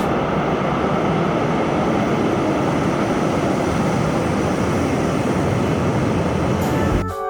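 Steady rushing, rumbling noise of a moving vehicle, even in level throughout.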